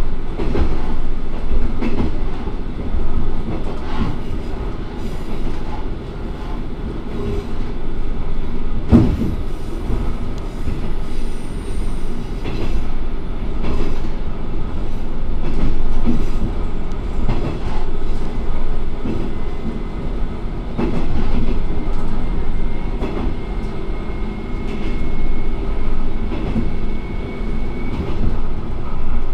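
Diesel railcar running along the line: a steady low engine and running rumble, with wheels clicking over rail joints at uneven intervals, the sharpest about nine seconds in. A faint high wheel squeal comes in past the middle for several seconds.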